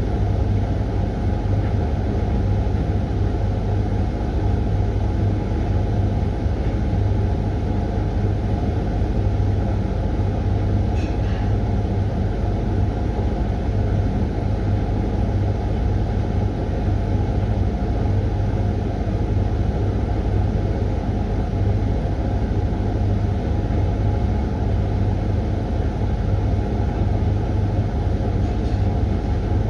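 Hoover washing machine running mid-way through its 20-minute Refresh cycle. It makes a steady low rumble with a constant motor hum and no breaks.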